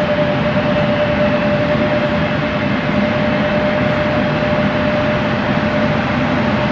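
Jet airliner engines running steadily: an even rushing noise with a held whine that fades near the end.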